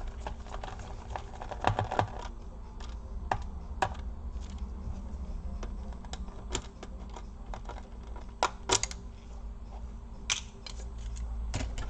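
Irregular small clicks and taps of a screwdriver and screws being worked out of the bottom case of an Acer Aspire 5738 laptop, with a few sharper clicks, over a faint steady hum.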